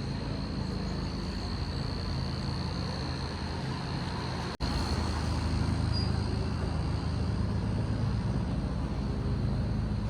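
Steady low rumble of a running vehicle engine with a faint, steady high whine above it. The sound cuts off for an instant about four and a half seconds in and comes back louder.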